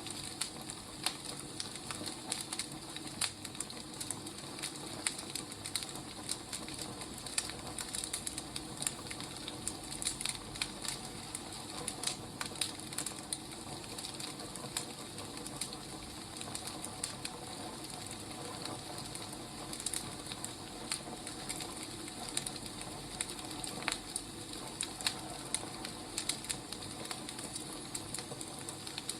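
Wood fire burning, with steady crackling and irregular sharp pops and snaps over a soft hiss.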